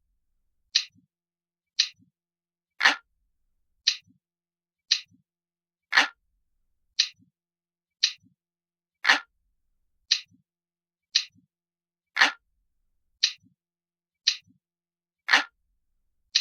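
Analog clock ticking steadily, about one tick a second; every third tick is fuller and deeper than the two between.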